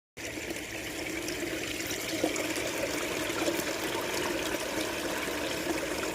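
Steady running water, trickling and splashing with many small ticks, starting abruptly a moment in.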